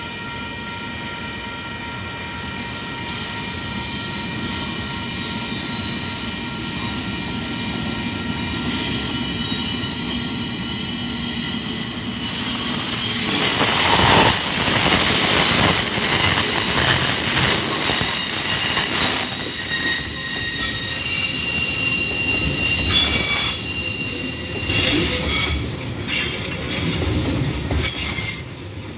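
KiwiRail DX-class diesel locomotive hauling a freight train past at close range: high, steady wheel squeal over the engine's rumble as it approaches and grows louder, then a loud surge as the locomotive goes by about halfway through. Container wagons follow, rolling past with clacking wheels and intermittent squeals.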